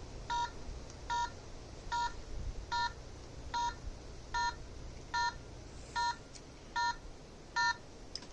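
Smartphone EMF-detector app beeping: short electronic chord-like beeps repeating evenly, a little more than once a second, about ten times.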